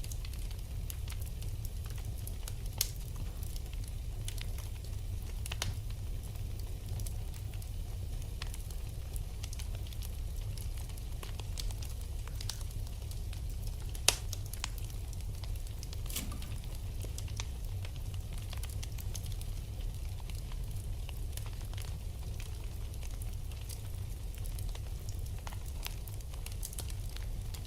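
Wood fire burning in a fireplace: a steady low rumble of flames with scattered crackles and pops, the sharpest pop about halfway through.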